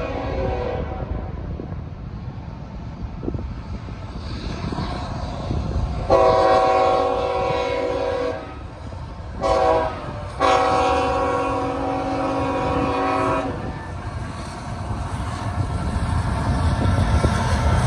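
CSX freight locomotive's multi-chime air horn sounding for a grade crossing: a blast ending in the first second, then a long blast, a short one and another long one, over the steady low rumble of the passing freight train.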